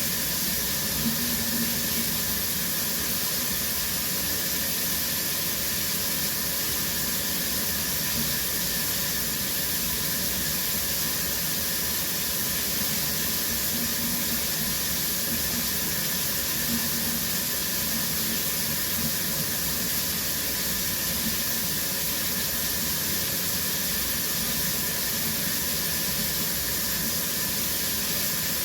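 Shower water running steadily, a constant hiss of spray.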